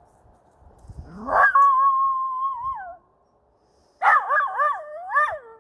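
A dog howling: a rising whine that holds one pitch for about a second and a half before falling away, then, after a short pause, a wavering, warbling howl.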